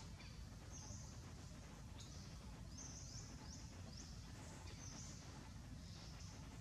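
Faint birds chirping: a string of short, high chirps, several of them close together in the middle, over a low steady background rumble.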